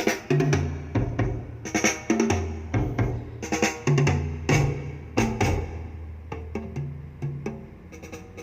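Drum-and-bass-heavy music played back through a Bewith car audio system with an added tweeter: kick and snare hits over deep held bass notes, easing off in level over the last couple of seconds.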